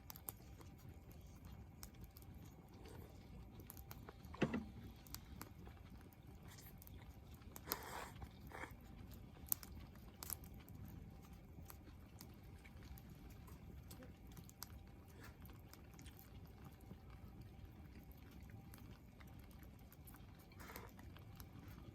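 Wood campfire crackling quietly, with scattered small snaps and pops and a single louder knock about four seconds in.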